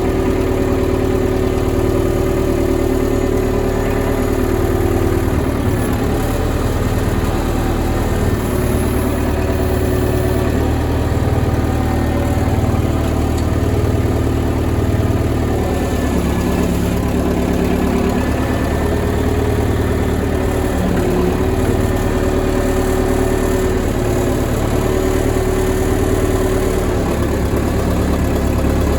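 Old Case backhoe's engine running steadily while the machine is driven, its pitch shifting a little now and then.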